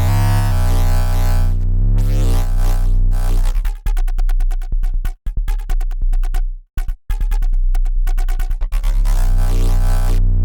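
Dirty FM synth bass riff patched in Bitwig's Polygrid, playing long held low notes that break into a fast stuttering run of short chopped notes in the middle before settling back into held notes.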